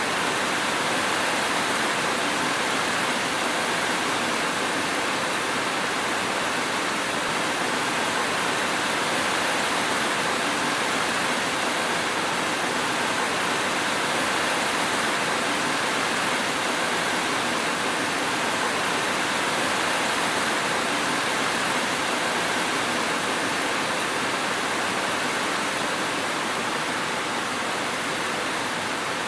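Steady heavy rain falling, an even hiss that does not change.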